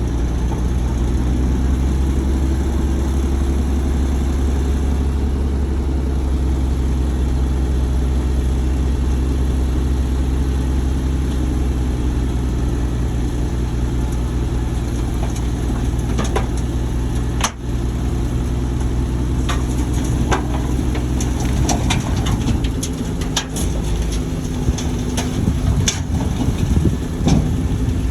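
Heavy diesel engine of earth-moving machinery running steadily at a constant speed. In the second half sharp metallic clanks come in and the engine note grows more uneven.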